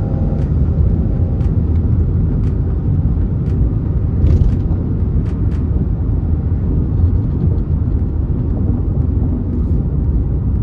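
A 2023 Chrysler 300 with the base 3.6-litre V6 being driven, giving a steady low rumble of engine and road noise.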